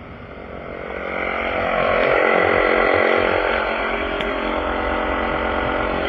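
Portable air compressor running steadily, inflating a repaired car tire; it grows louder over the first couple of seconds.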